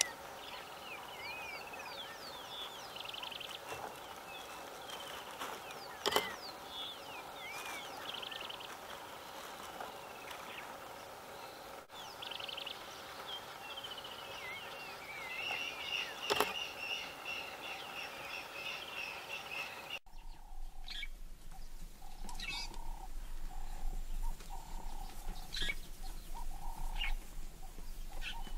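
Wild birds chirping and trilling in quick, rising and falling calls, with a few sharp clicks. About two-thirds of the way through, the soundscape changes abruptly to a short call repeating about once a second over a low steady hum.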